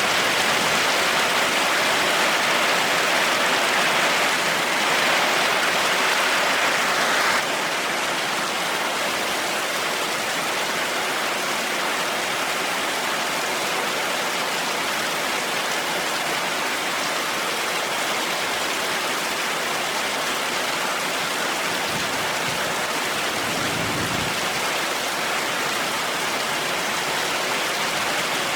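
Heavy rain falling steadily in a dense hiss. About seven seconds in it changes abruptly to a slightly quieter, less bright rain sound.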